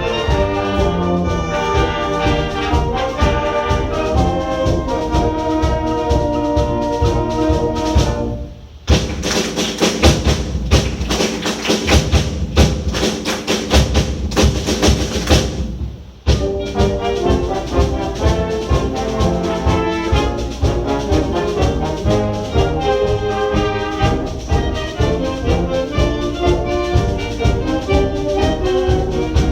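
Concert wind band playing, led by brass. About eight seconds in, the held notes stop for roughly seven seconds of fast, loud strikes with no sustained notes, most likely a percussion break. Then the full band comes back in.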